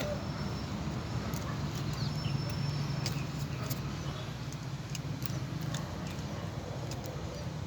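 Steady low engine hum, a little louder two to four seconds in, with a few faint scattered clicks.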